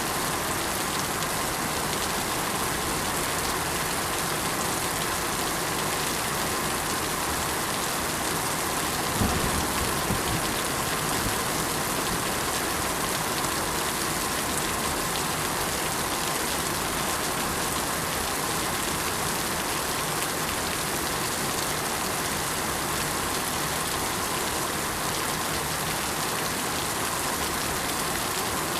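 Steady, even rain falling on surfaces, a dense continuous patter. About nine seconds in there is a brief low thump.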